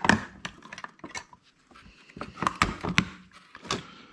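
Flat screwdriver prying open a hard drive's metal case: a string of sharp, irregular metallic clicks and clatter.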